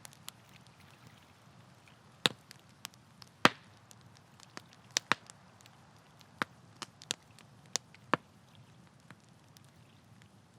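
Wood campfire crackling: sharp, irregular pops and snaps, the loudest about three and a half seconds in, over a low steady hiss.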